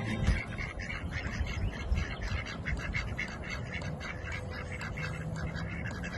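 Ducklings peeping: many short, high calls in quick succession.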